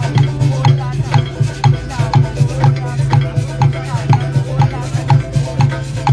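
Live percussion-led band music with a steady beat of about two strokes a second, drums pulsing underneath.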